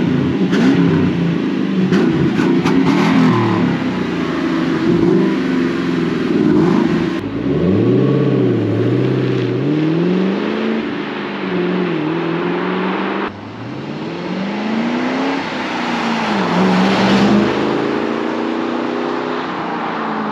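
2000 Ford Mustang GT's 4.6-litre V8 on its stock exhaust, blipped up from idle and falling back again and again. It is heard in a few spliced takes, with sudden cuts about 7 and 13 seconds in.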